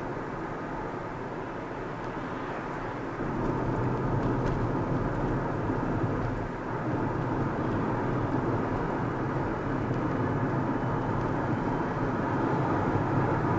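Car road and engine noise heard from inside the moving car, a steady rumble that gets louder about three seconds in.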